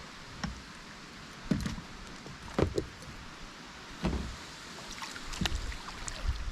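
Wind buffeting the microphone over water noise around a kayak, with about five short knocks and creaks spaced roughly a second apart.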